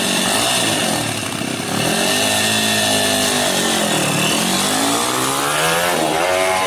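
Motorcycle engine revving hard, its pitch repeatedly falling and rising, with a dip about four seconds in and another near the end; the throttle is said to be stuck open.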